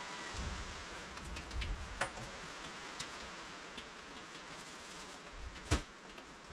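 Steady hiss of rain with scattered sharp drips ticking close by, the loudest a little before the end, and a few low rumbling bumps.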